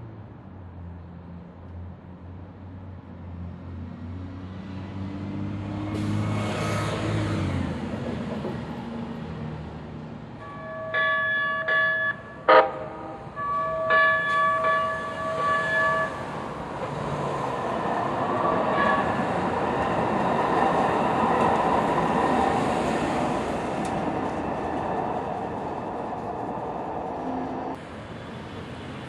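Light rail train moving through the station: a low motor rumble builds, then the train sounds two multi-tone horn blasts about two seconds apart, with a sharp clank between them. After that comes a steady rush of wheels and motors that stops abruptly near the end.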